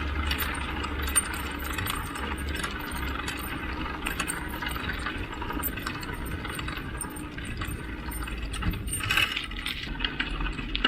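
Bicycle rolling along with steady rattling and light metallic jingling and a low rumble underneath, as it is ridden behind running dogs.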